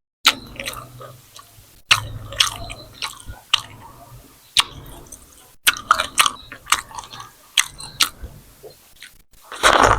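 Close-miked mouth sounds of eating: wet chewing and smacking of grilled chicken and curry with roti, in a run of sharp clicks at irregular intervals. Near the end comes a louder, longer smear of noise.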